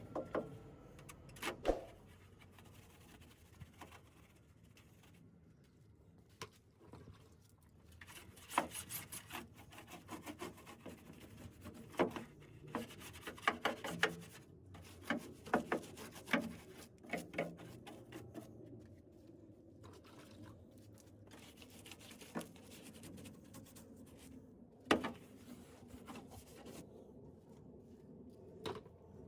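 Cleaning the underside of a car bonnet by hand: quiet rubbing and scrubbing strokes in short clusters, with scattered light clicks and taps.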